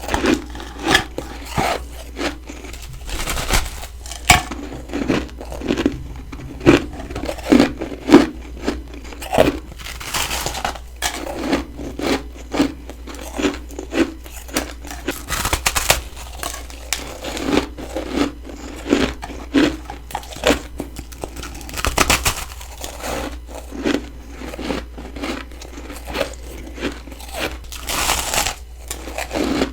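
Biting and chewing humidifier freezer frost: crisp, irregular crunches one after another, with softer chewing between them.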